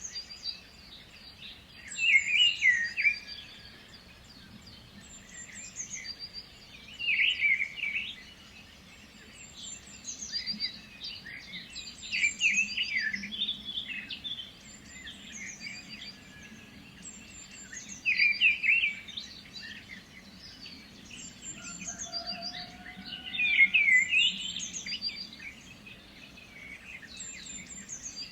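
Birds singing: a loud warbled song phrase returns about every five seconds, with fainter high chirps between the phrases.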